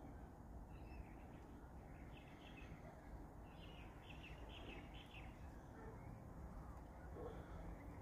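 Faint short bird chirps, a cluster of them about two to five seconds in, over low steady background noise.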